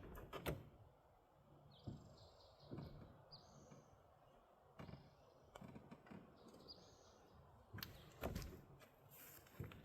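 Near silence, with a small bird chirping faintly a few times and a few soft knocks and handling sounds.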